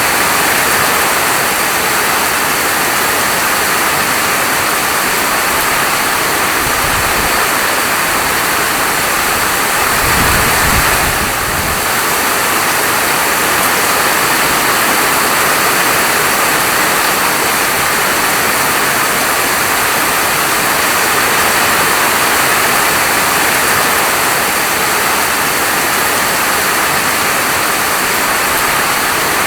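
Steady heavy rainfall, a continuous dense hiss of rain. A brief low rumble swells about ten seconds in.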